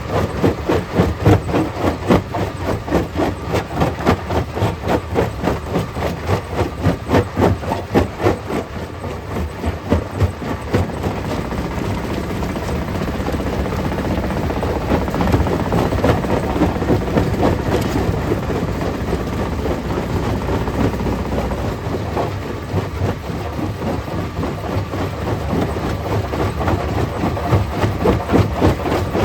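Stone crusher running, with rapid clattering knocks of rock being crushed. The knocking gives way to a steadier grinding rumble for about ten seconds in the middle, then picks up again.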